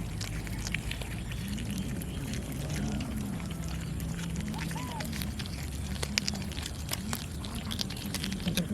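Cats making low, repeated vocalizations with rising and falling pitch while eating raw fish, over frequent short chewing clicks.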